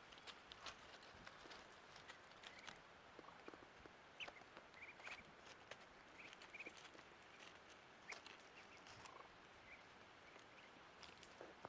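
Muscovy ducklings peeping softly in short, high chirps, with scattered faint clicks and taps among them.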